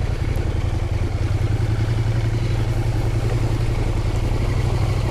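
Adventure motorcycle's parallel-twin engine running at low, steady revs, likely the Husqvarna Norden 901's.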